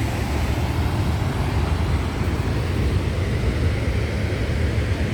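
Steady rushing roar of the Ohiopyle waterfall on the Youghiogheny River, with a heavy low rumble underneath.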